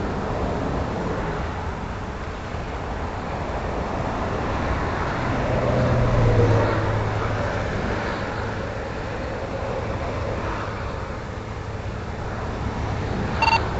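Highway traffic passing by, a steady rush of tyres and engines, with one louder vehicle going past around the middle with a low engine drone. A short electronic beep sounds near the end.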